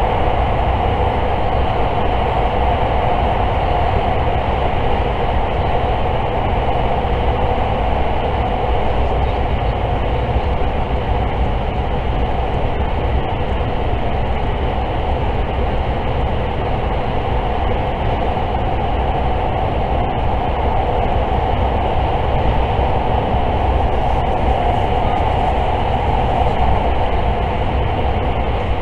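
Limited express electric train running at speed, heard from inside the passenger car: a steady rumble and rush of wheels on rail and running gear, even throughout, with no distinct rail-joint clicks.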